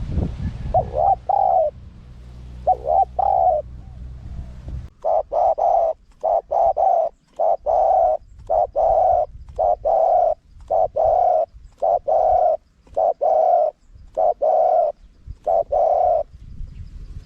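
Spotted dove cooing: two short coo phrases, then a quick run of about a dozen low coos evenly spaced, which stops shortly before the end.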